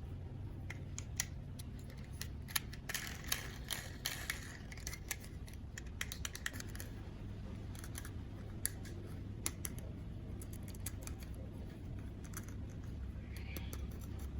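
Plastic toys and packaging being handled: irregular sharp clicks and taps, with a short rustle about three to four seconds in, over a low steady hum.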